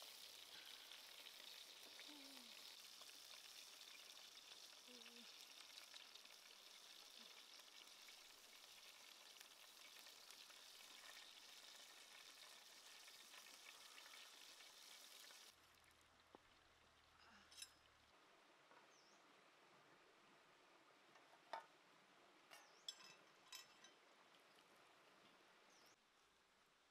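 Beef and vegetable skewers sizzling faintly in a frying pan, a steady hiss that stops abruptly about halfway through. After that there is only quiet background with a few small clicks.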